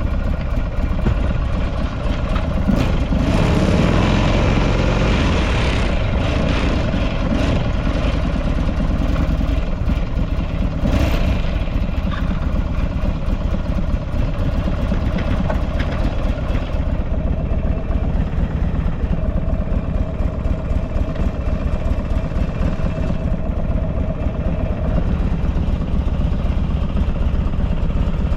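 Buell XB12Ss Lightning's 1203 cc air-cooled V-twin idling steadily, with some extra noise added during the first ten seconds or so. The engine runs evenly, and the seller calls it very quiet with no abnormal noises.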